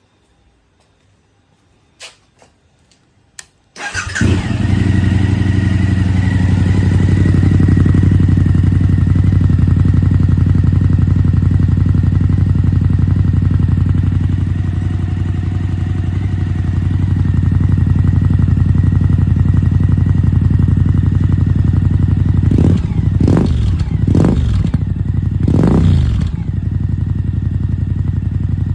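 Suzuki V-Strom 1050 DE's V-twin engine through an aftermarket Delkevic carbon-fibre exhaust: a few clicks, then the engine starts about four seconds in and idles steadily. Near the end it is given a few quick throttle blips, each rev rising and falling back to idle.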